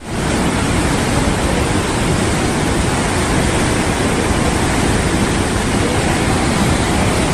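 Loud, steady rush of water that starts abruptly and holds without change.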